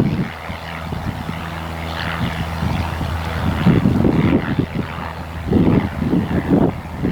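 Cessna 152's engine and propeller running with a steady low hum. From about four seconds in, gusts of wind buffet the microphone in irregular low rumbles.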